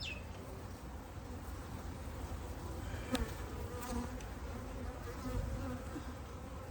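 Honeybees buzzing in a steady hum around an open top-bar hive frame, with a single light click about three seconds in.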